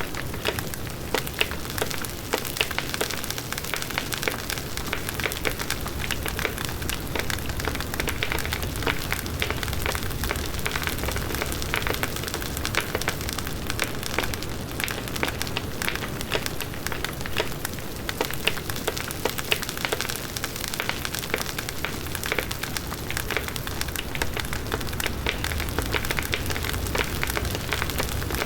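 Large wood bonfire burning, with dense, continuous crackling and snapping from the burning wood over a low rush of flames.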